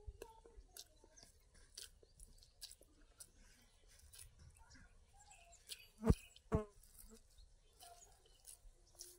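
Faint, wet chewing of soft idli and mutton curry, with small mouth and finger clicks as the food is squeezed and mixed by hand on a banana leaf. Two short, louder sounds come about six seconds in.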